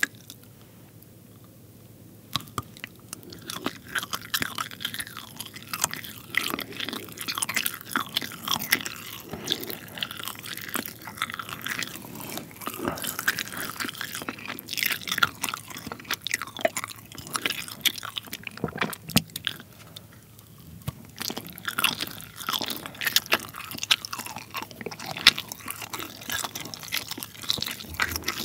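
Close-miked chewing of soft, rubbery colored string cheese, with many small wet mouth clicks. It starts about two seconds in, with a short lull about twenty seconds in.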